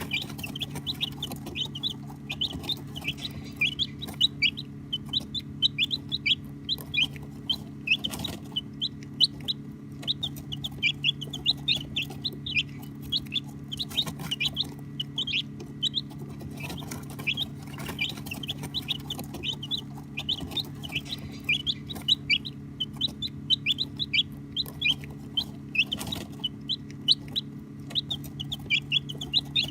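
Baby chicks peeping nonstop: many short, high chirps, each falling in pitch, several a second and overlapping, over a steady low hum.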